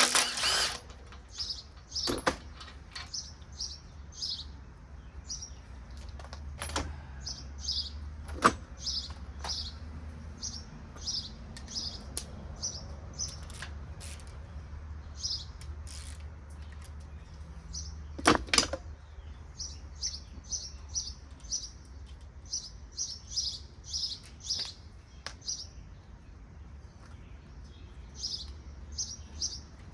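A small bird chirps over and over in short quick clusters, with a few sharp metallic knocks from hand work on the engine, the loudest right at the start, about eight seconds in and about eighteen seconds in, over a steady low hum.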